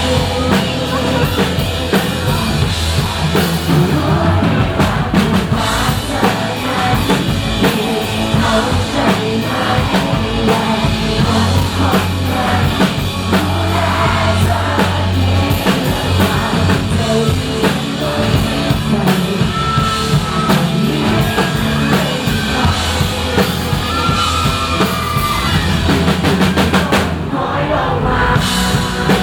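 Live rock band playing a song: drum kit, bass and guitars at full volume, with a short break near the end before the drums come back in.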